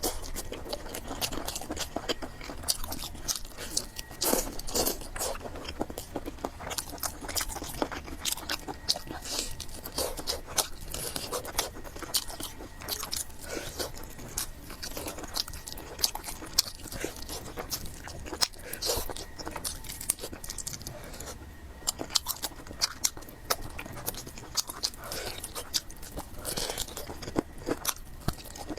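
Close-up eating sounds: chewing and slurping of fried noodles with pork, with many small irregular crunches and wet clicks.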